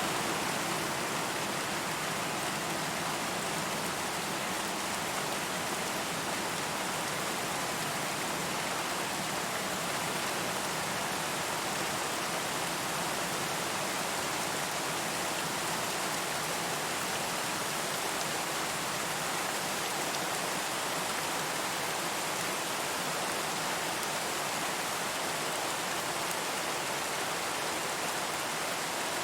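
Steady rain falling, an even hiss of drops without distinct individual hits or thunder.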